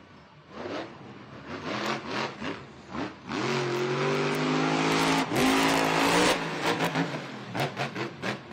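Monster truck engine revving in short throttle blips, then held at high revs for about three seconds in the middle, then blipping again.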